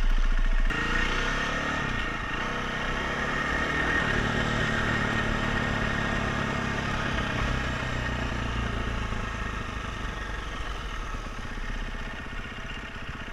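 Dirt bike engine running, climbing in pitch over the first few seconds as it revs up, then holding a steady note that eases off slightly toward the end.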